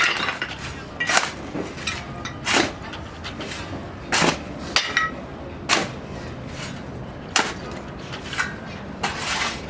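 Metal clanking and tapping: about nine separate sharp knocks, irregularly spaced at roughly one a second. Some leave a brief high ring.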